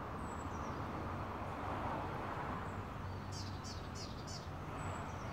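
A small bird chirping four times in quick succession about three seconds in, over a steady low hum of outdoor background.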